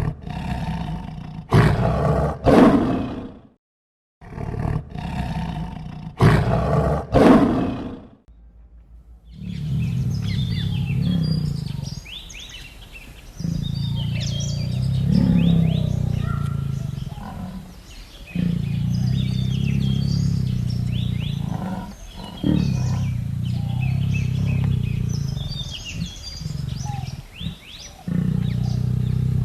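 Deep animal roaring: two loud, short roaring bouts, then after a brief pause a longer series of deep calls a few seconds each, with small birds chirping in the background.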